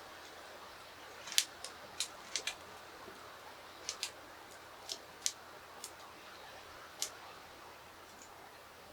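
About a dozen light, sharp clicks and taps at uneven intervals, mostly in the first seven seconds, from chopsticks and tableware being handled while eating.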